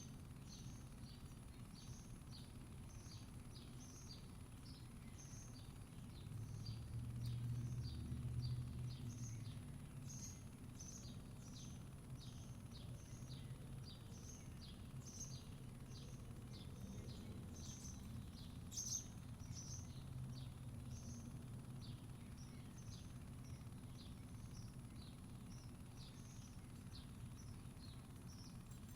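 Backyard ambience: a small bird chirping over and over, short falling chirps two or three times a second, over a steady low rumble that swells for a few seconds early on.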